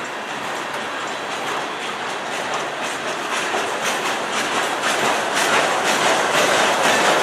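Freight cars of a CN manifest train rolling past close by: a steady rolling noise with repeated clicks as the wheels pass over the track, getting louder in the second half.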